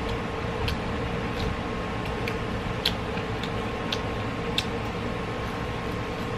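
Wet mouth clicks and smacks from chewing fried chicken wings, irregular, roughly one or two a second, over a steady background hum.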